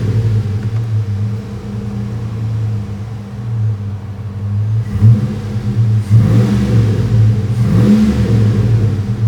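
2005 Chevrolet Silverado 4.8-litre V8 running steadily at idle, then revved up briefly a few times in the second half, each time settling back to idle.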